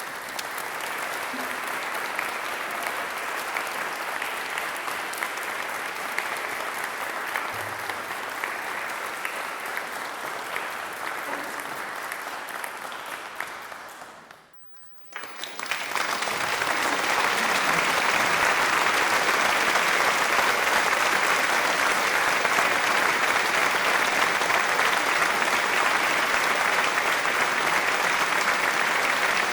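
Crowd applause, dense and steady clapping. It fades out about halfway, stops for about a second, and then a second, louder round of applause starts.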